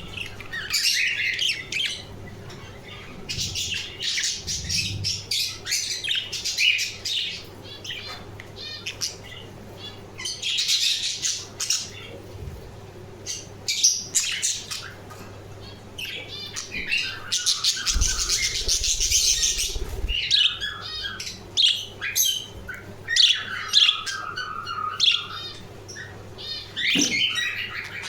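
Budgerigars chattering: many quick chirps and wavering calls, often overlapping, with a denser burst of calls about two-thirds of the way through.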